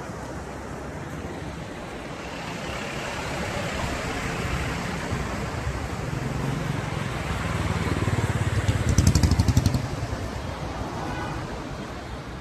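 Road vehicle noise: a steady running hum with road noise that builds gradually, swells to a loud, pulsing surge about nine seconds in, then eases off.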